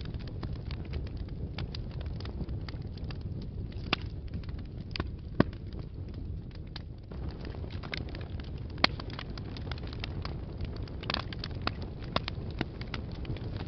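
Wood fire burning in a fireplace: a steady low rumble of flames with irregular crackles and occasional sharp pops.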